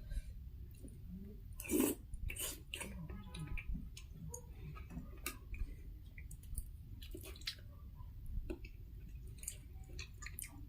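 Close-miked chewing and wet mouth sounds of someone eating, with scattered small clicks and smacks; one louder smack about two seconds in.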